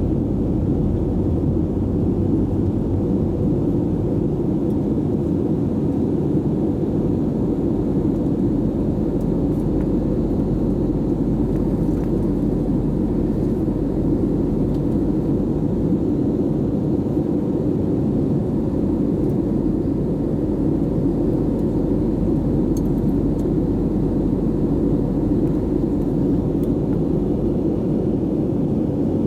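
Steady, dull rumble of jet engines and airflow heard inside the cabin of an Airbus A320 in flight, with no changes or breaks.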